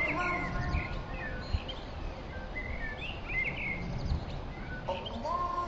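Birds chirping with short, quick calls over a steady background noise. A held musical tone fades out in the first second or so, and another sustained tone comes in near the end.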